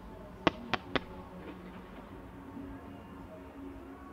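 Fireworks: three sharp bangs in quick succession about half a second in, as a fan of comet shots is fired from the lakeside, over a faint low background hum.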